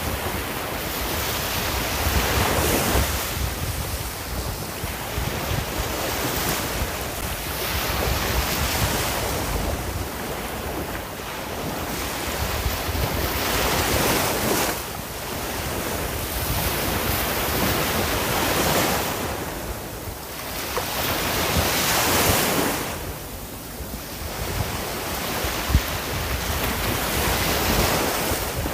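Sea waves breaking and washing on the shore, swelling and ebbing every few seconds, with wind rumbling on the microphone.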